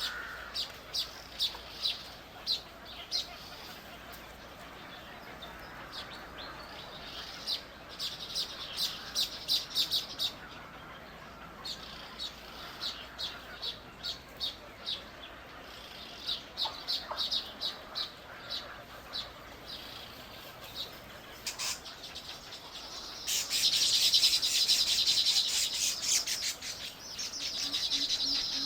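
Bird chirping in runs of short, high notes, several a second, with pauses between runs. About 23 seconds in, it breaks into a louder, faster chatter of rapid notes.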